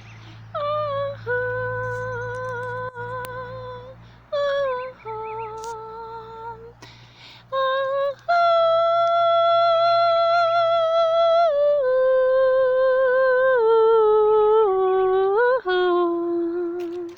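A woman humming a melody without words: long held notes stepping up and down, with a slight waver and short breaks between phrases.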